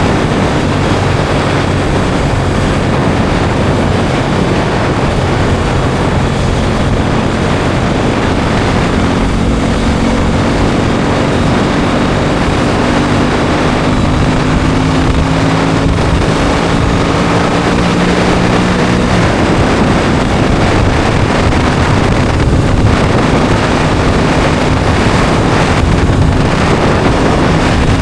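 Aprilia Tuono 660 Factory's parallel-twin engine running under way, heavily mixed with wind noise on the microphone. The engine note climbs slowly for several seconds in the middle, then falls back.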